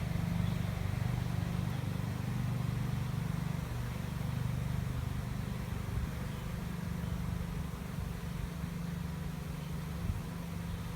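A swarm of honey bees buzzing as it moves into a swarm trap: a steady, low drone of many bees' wings.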